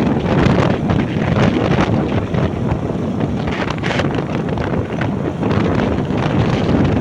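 Wind buffeting the microphone of a moving motorbike: a loud, continuous rush with a low rumble of the ride underneath.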